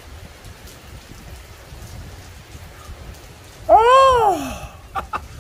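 Heavy rain falling steadily. About three and a half seconds in, a man lets out a loud drawn-out "oh" that rises and then falls in pitch, an exclamation after downing a shot of drink. A few sharp light taps follow near the end.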